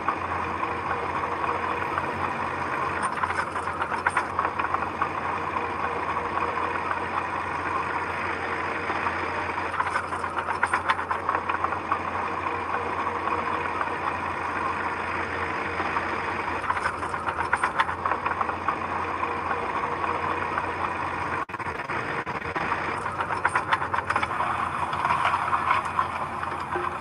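Diesel engine of a heavy earthmoving machine running steadily, with louder, harsher stretches a second or more long every six to seven seconds.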